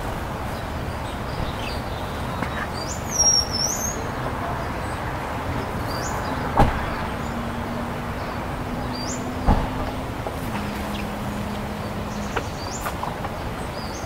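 Outdoor background with a steady low hum that drops slightly in pitch partway through, a few short high rising bird chirps, and two sharp knocks, the first a little past halfway and the second about three seconds later.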